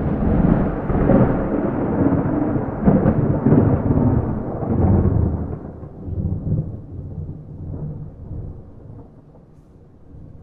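A thunderclap that starts suddenly out of silence, then rolls and rumbles loudly for about five seconds before dying away in a long fading rumble, with no rain.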